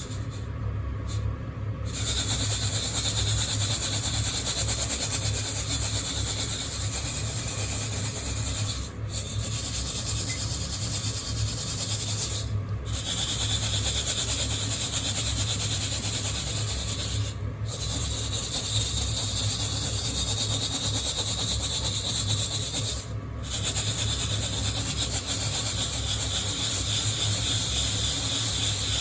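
Coffee beans rustling and rubbing against a hand-held wire-mesh roaster as it is shaken steadily, stopping briefly four times.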